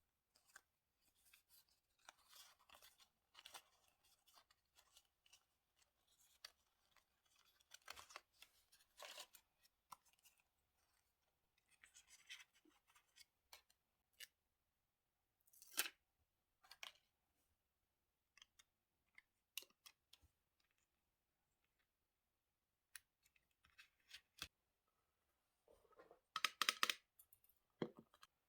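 Scissors snipping paper and paper being handled in short, scattered bursts, with a louder cluster of handling sounds near the end.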